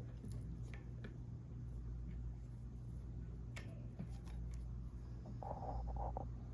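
Antique Dayton 12-inch table fan running with a steady low motor hum, with a few faint clicks and a brief rustle near the end.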